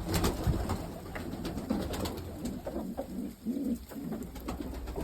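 Pigeons cooing: a run of low, rounded coos one after another, with a few sharp clicks, the loudest near the start.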